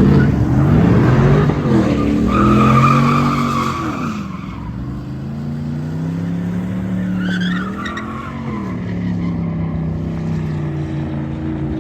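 A truck's engine revving up and down repeatedly while its tires squeal, as the truck is spun in tight circles. There are two stretches of squeal, one about two seconds in and another near eight seconds.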